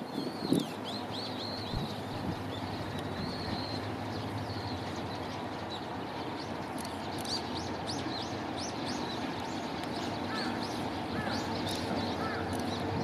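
Small birds chirping in many short, high calls, some falling quickly in pitch, that grow busier about halfway through, over a steady low hum.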